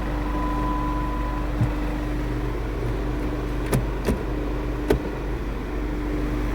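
Chrysler 2.8 CRD four-cylinder common-rail diesel idling steadily, with a few sharp clicks and a short high tone near the start.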